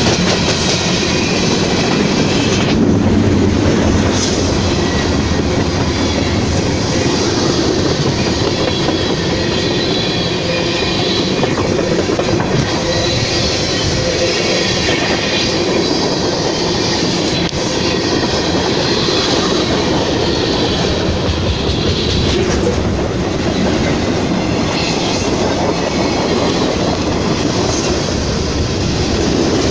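Train rolling past at close range: a steady rumble of wheels on rails, with a clickety-clack over the rail joints and a little wheel squeal.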